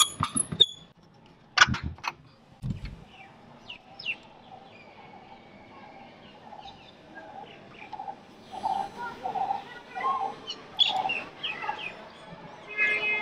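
Birds chirping and calling, with a string of repeated calls in the second half. A few sharp clicks come about a second and a half in.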